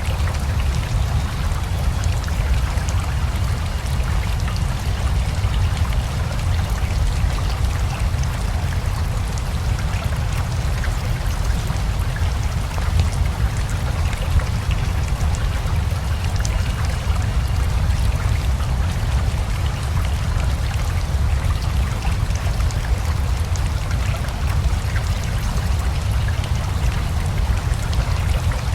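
Steady rain with a river rushing beneath it: an even, unbroken wash of water noise over a deep low rumble, with many fine drop ticks scattered through it.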